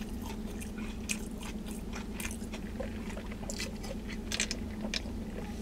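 Close mouth sounds of eating and drinking: scattered wet clicks and smacks of chewing and of sipping through a straw from a fountain-drink cup, over a steady low hum in the car's cabin.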